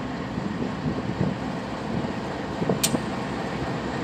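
Union Pacific freight train's diesel locomotives approaching and running past, a steady rumble of engines and wheels on the rails. A single sharp click sounds about three seconds in.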